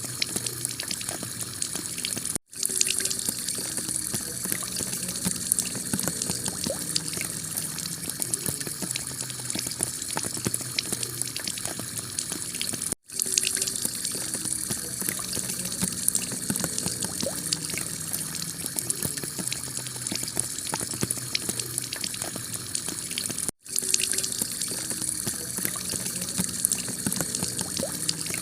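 Heavy rain pattering steadily on a clay tile roof, dense with individual drop hits. The sound cuts out for an instant three times, about ten seconds apart.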